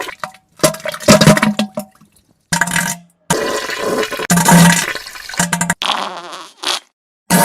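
A run of wet farting and diarrhea sound effects: about half a dozen spluttering, splattering bursts, several with a low buzz, each cut off sharply before the next. About six seconds in comes a hissing, splashing burst.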